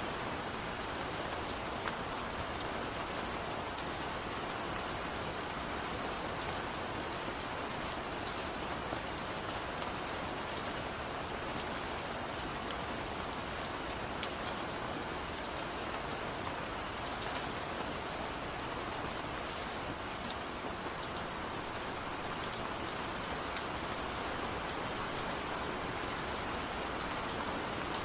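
Steady rain falling, an even hiss dotted with many sharp ticks of single drops striking.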